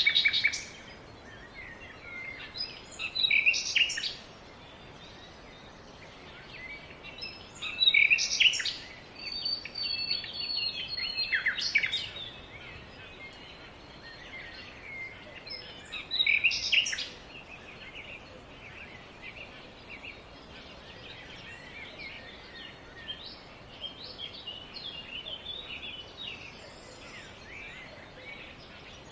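Songbirds chirping and singing. There are several louder bouts of song in the first half, near the start and about 3, 8, 11 and 16 seconds in, over fainter steady chirping that continues to the end.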